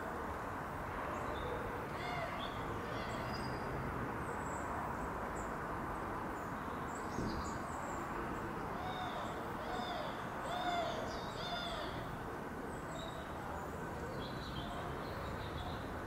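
Small birds calling with short arched notes, repeated on and off and busiest past the middle, over a steady background hum.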